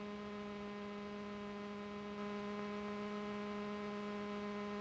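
Steady electrical hum with a ladder of evenly spaced overtones over faint hiss. It rises slightly in level about two seconds in.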